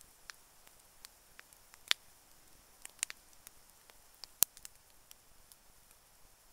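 Campfire crackling: irregular sharp pops and snaps of burning wood over a faint steady hiss, with the two loudest pops about two seconds in and just past four seconds.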